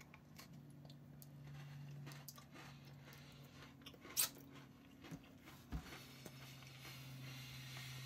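A person biting into and chewing a Cadbury Crunchie biscuit, a chocolate-covered biscuit with honeycomb pieces. It is faint, with one sharp crunch about four seconds in and small clicks after it, over a steady low hum.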